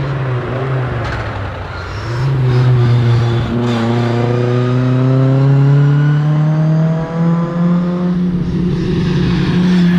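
Fiat 124 rally car's engine under hard driving: its pitch drops about two seconds in at a gear change, then climbs steadily as the car accelerates, and changes again around seven to eight seconds in with a rougher patch.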